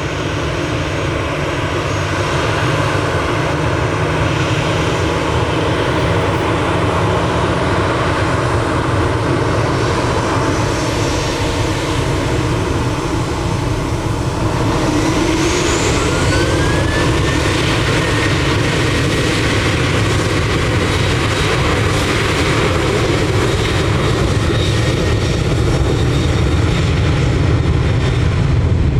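Jet airliner engines running loudly and steadily, with a whine that rises in pitch about halfway through.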